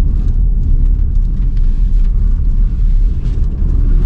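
Strong tornadic crosswinds buffeting the car and microphone: a loud, steady low rumble with faint scattered ticks above it.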